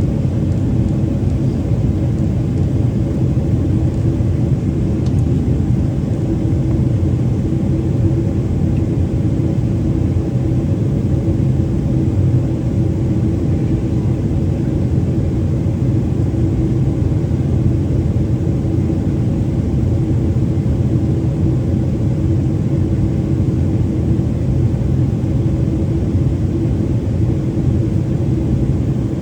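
Steady cabin rumble inside a Boeing 777-300ER during descent: its GE90-115B engines and airflow over the fuselage, with a steady low hum running under it.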